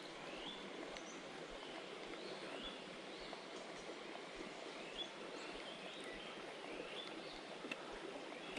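A bird repeating a short call that slides upward and then levels off, roughly once a second, over a steady outdoor background hiss.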